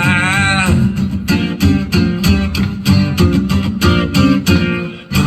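Guitar strummed in a steady rhythm as live accompaniment to a song, with the held end of a sung line fading out just after the start.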